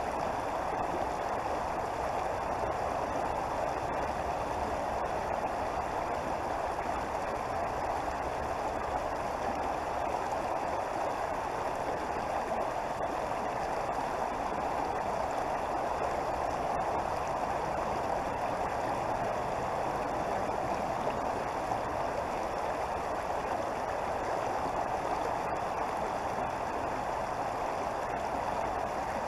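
Creek water flowing steadily, an even, unbroken rush.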